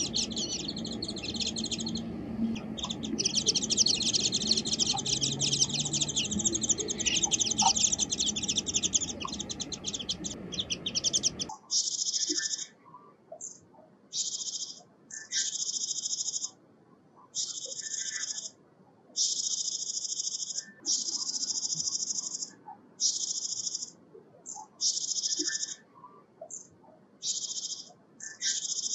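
Small songbirds calling: first a fast, continuous high twittering over background noise. About eleven seconds in it cuts to repeated short, buzzy high calls, each about a second long, with pauses between them.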